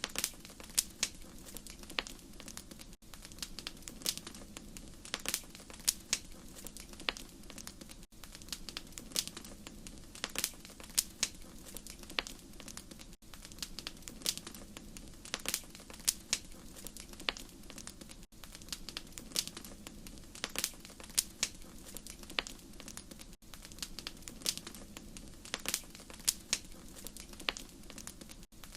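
Wood fire crackling: irregular sharp pops and snaps over a low, steady hiss of the flames, with a brief dip about every five seconds.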